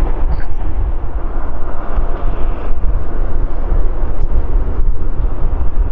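Four GEnx-2B67 turbofan engines of a Boeing 747-8F freighter, a loud steady rumble and rush.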